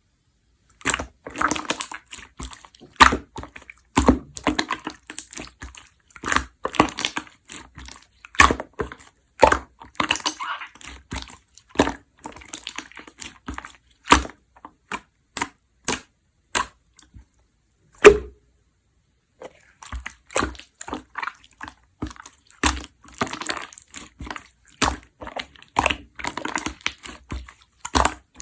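Clear slime being squeezed, stretched and folded by hand, giving rapid sharp clicks and pops as trapped air bubbles burst, with a short pause about two thirds of the way in.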